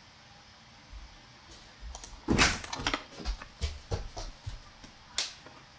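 Computer keyboard keys and mouse clicks, entering a dimension value: a heavier knock about two seconds in, then several separate clicks.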